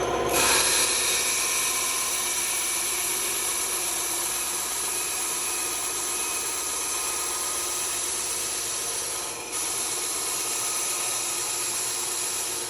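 Band saw running and cutting, a steady hiss of the blade in the stock over the motor, with a short dip about nine and a half seconds in.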